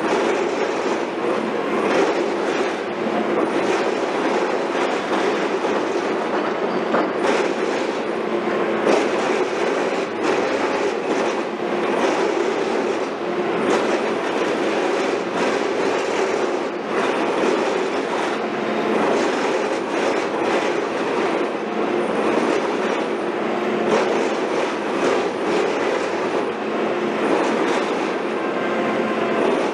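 Heavy construction machinery running with a steady clattering noise and frequent sharp knocks.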